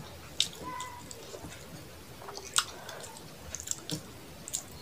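Close-miked chewing of a mouthful of fish curry and rice, with wet mouth clicks and smacks. Two louder smacks come about half a second and two and a half seconds in, and a run of small clicks comes near the end.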